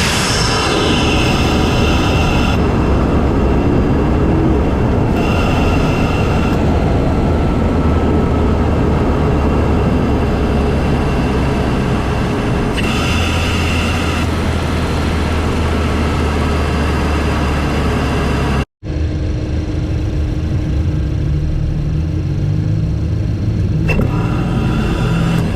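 Intake and engine sound of a Volkswagen MK7 GTI's 2.0-litre turbocharged four-cylinder breathing through a CTS cold air intake, recorded in the engine bay while driving: a loud, steady rumble with higher tones coming and going as the engine speed changes. The sound cuts out for a split second about three quarters of the way through.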